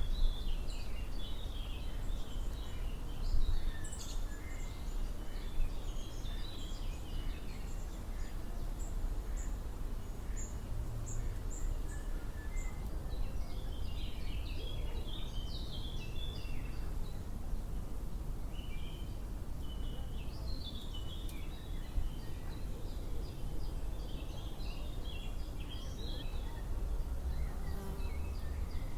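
Songbirds singing in bursts of quick chirping phrases over a steady low rumble. The song comes in clusters: at the start, again around the middle, and through most of the last third.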